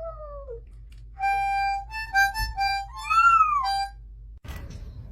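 Harmonica playing a few held notes at changing pitches, one of them sliding up and back down, after a short falling animal call like a meow. It cuts off suddenly near the end.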